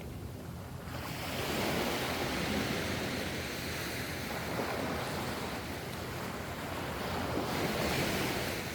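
Ocean surf: waves washing in, the sound of breaking water swelling about a second in and again near the end.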